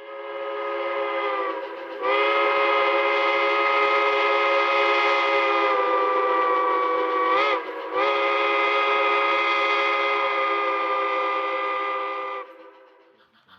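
Steam locomotive chime whistle blowing three blasts, several notes sounding together as a chord. The first blast is short, with its pitch sagging as it ends; the next two are long, with a brief break between them.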